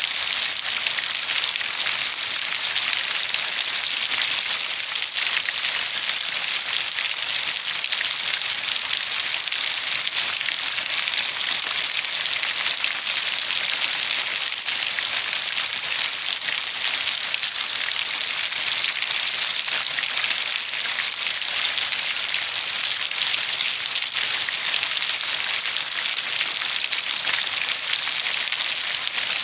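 Steady heavy rain falling on a surface: a dense, even hiss of drops with fine pattering ticks and no change in intensity.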